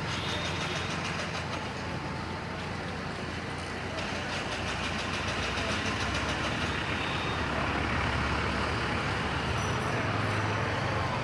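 A boat engine running steadily with a fast, even pulsing beat.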